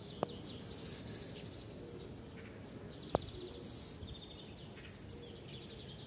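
A small songbird's high, rapid trills, three times over, above faint steady background noise. Two sharp clicks come just after the start and about three seconds in, the second the louder.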